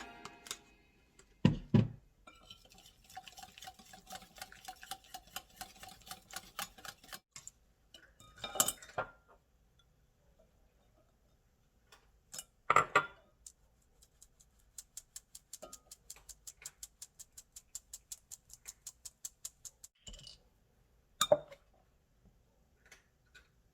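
Kitchen utensils and dishes clinking: two runs of quick, even light taps, about six a second, like a utensil working against a bowl, between a few louder clatters of dishes.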